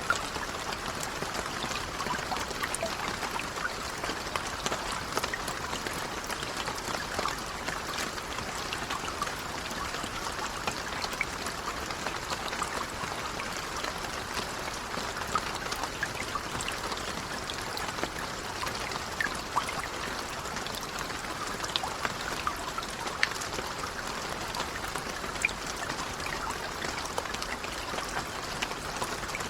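Steady, gentle rain falling, an even hiss with many small scattered drops pattering throughout.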